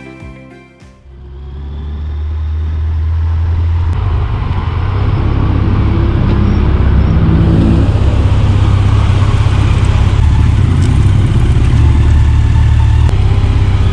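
Background music fades out, then a motorcycle running at road speed takes over: a low engine rumble with rushing noise that builds over the first few seconds and then holds steady.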